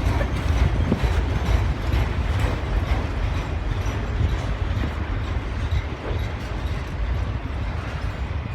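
Freight train cars rolling past on the rails: a steady low rumble with faint scattered clicks from the wheels.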